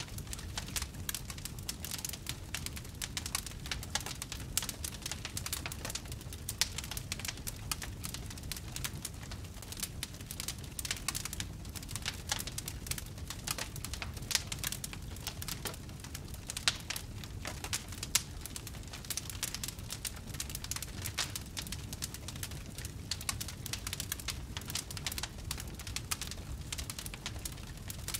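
Wood fire crackling in a fireplace: a dense, steady run of small crackles and pops, a few louder than the rest, over a low, even rumble of the flames.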